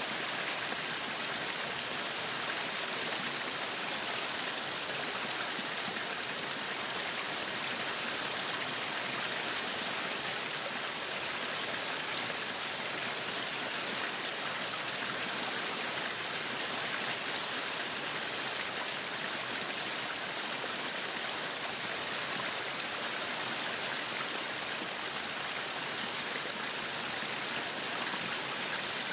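Meat sizzling steadily on a yakiniku grill: a dense, even hiss with no pauses.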